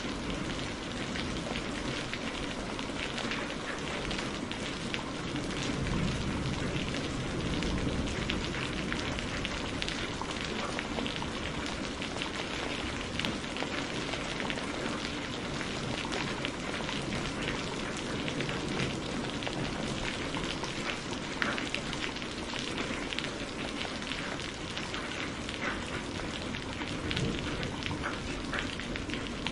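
Steady rain falling, with fine crackling mixed in from a fire burning in a fireplace.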